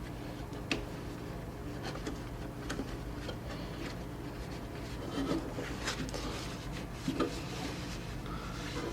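Hand cleaning work: rubbing and wiping with scattered small clicks and knocks, a few louder knocks about five and seven seconds in, over a steady low hum.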